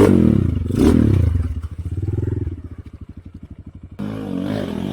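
Motorcycle engine revving, then dropping back about two and a half seconds in to a low, evenly pulsing idle; the sound changes abruptly about four seconds in.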